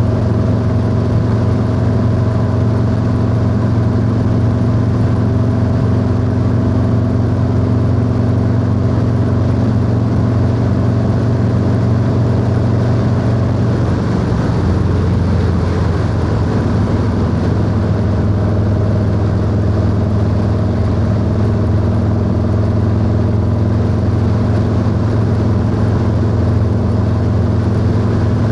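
Harley-Davidson Low Rider S V-twin engine cruising steadily on the road. About halfway through the engine note wavers briefly, then settles and holds steady at a slightly lower pitch.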